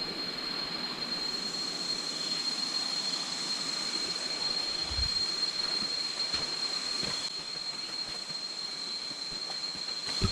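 Jungle insects droning: a steady, unbroken high-pitched whine over a noisy hiss, with a few faint knocks.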